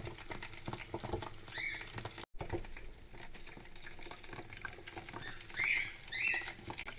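Cockatiels chirping in short calls, one about one and a half seconds in and a run of them between about five and seven seconds, over soft pattering clicks.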